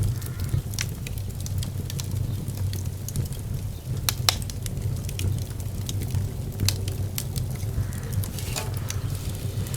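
Fire burning in a fireplace: frequent sharp crackles and pops over a steady low rumble, with one louder pop about four seconds in.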